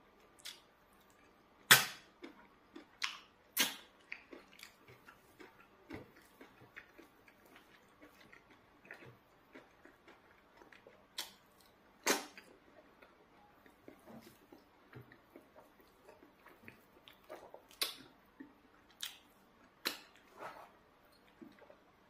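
Close-miked eating by hand of eba with spinach soup: chewing with irregular wet lip smacks and mouth clicks, a few much louder than the rest.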